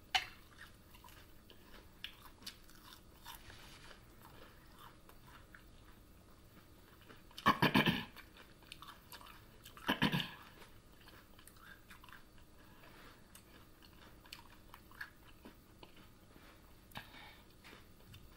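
Close-miked chewing of fried food, with small wet mouth clicks. Two brief, louder sounds come a couple of seconds apart, past the middle.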